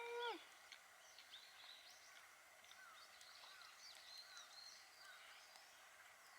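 Quiet outdoor ambience with small birds chirping in brief, scattered calls. It opens with one short pitched sound that rises and then drops away, the loudest moment.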